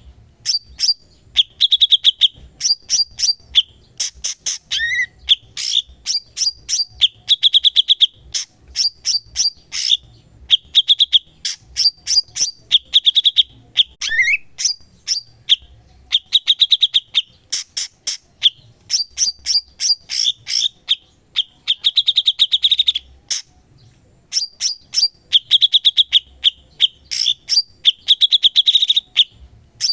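A cucak cungkok singing continuously and vigorously: fast runs of sharp, clicking notes alternate with rattling trills, broken by a couple of short upward-slurred notes.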